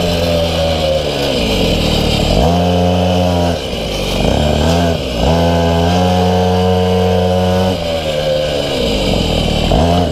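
Minimoto's small two-stroke engine, heard on board, revving up and easing off in turn: its pitch falls as it slows, then climbs quickly and holds at high revs twice, about two and a half and five seconds in, before dropping and rising again near the end.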